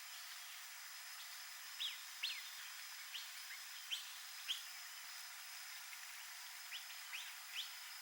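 A small bird giving short, high, quickly falling chirps, a run of about six between two and four and a half seconds in and three more near the end, over a steady faint background hiss of the marsh.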